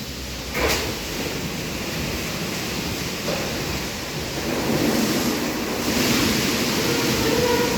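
Istobal M12+ rollover car wash running its wash cycle: a steady rushing noise of spraying water and machinery, with a sharp knock about a second in.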